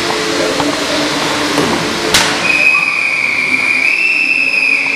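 A referee's whistle blown in one long, steady blast of about two and a half seconds, which here signals the end of the first half of a canoe polo match. A sharp knock comes just before the whistle, heard over the constant murmur of players and spectators.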